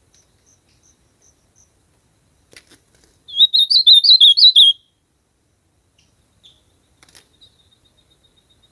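Ultramarine grosbeak (azulão) singing one short warbled phrase of quick up-and-down notes, about a second and a half long, a few seconds in. Before it come five faint, evenly spaced high peeps.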